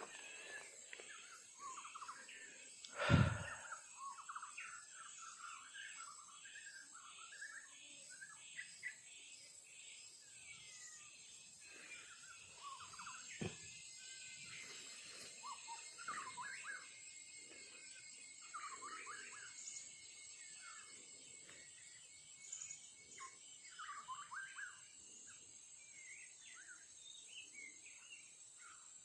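A songbird singing many short, varied chirping phrases over a steady high insect hum, with a single thump about three seconds in.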